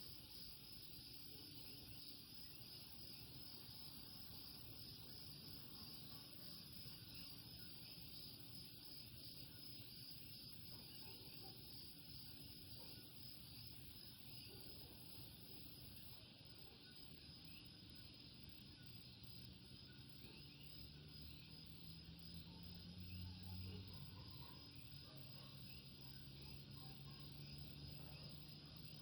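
Faint night chorus of Puerto Rican coquí frogs over a steady high trill. A low engine hum comes in and rises in pitch over the last several seconds.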